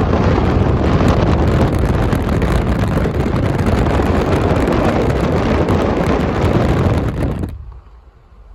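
Wind buffeting the microphone: a loud, even rumbling roar, heaviest in the low end, that drops away abruptly about seven and a half seconds in.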